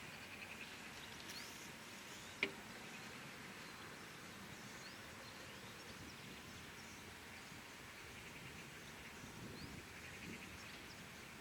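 Faint outdoor background noise with a steady hiss and a few faint, short bird chirps; a single sharp click about two and a half seconds in.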